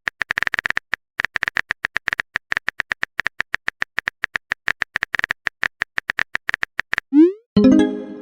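Rapid clicking of a keyboard typing sound effect, several keystrokes a second with short gaps. Near the end comes a quick rising swoosh and then a short pitched chime, like a message being sent.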